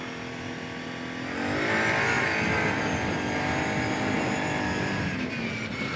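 Kawasaki Brute Force 750 ATV's V-twin engine being throttled up, rising in pitch and loudness about a second and a half in, then holding high revs and easing slightly near the end.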